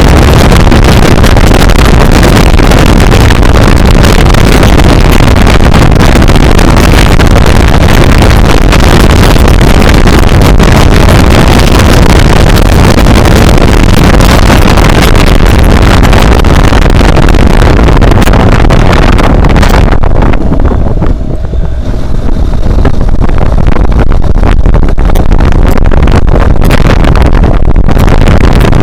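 Loud wind buffeting straight onto the bare microphone of a Xiaomi Yi action camera, fluttering and overloading, because the camera is riding without a case. About twenty seconds in it eases for a second or two, then builds again.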